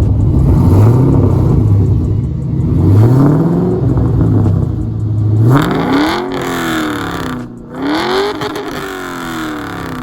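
1998 Camaro Z28's LS1 V8 running through its new exhaust setup: idling, blipped twice briefly, then revved harder twice in the second half, the pitch climbing and falling back each time.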